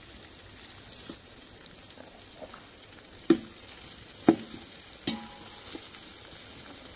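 Onions, green chillies and curry leaves frying in hot oil in a pot as a paste is stirred in: a steady sizzle. Three sharp knocks come about a second apart near the middle, the last with a short metallic ring.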